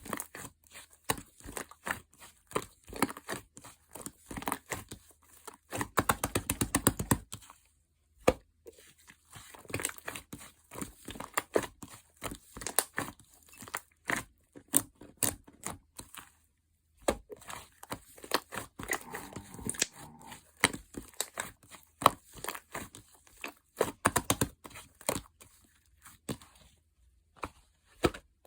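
Soft, fluffy slime being squished, stretched and pressed by hand, giving irregular runs of sticky clicks and pops with short pauses between them. About six seconds in, there is a fast, dense run of clicks.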